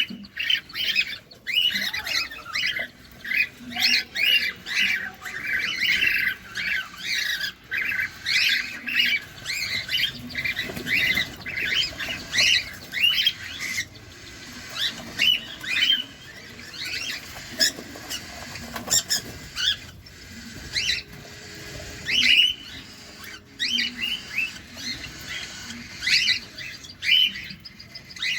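Cockatiels calling: a rapid run of short chirping calls, several a second, which grows sparser about halfway through.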